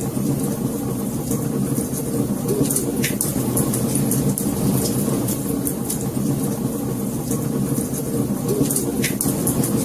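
Wood fire crackling: scattered sharp pops and ticks over a steady low rumble of burning.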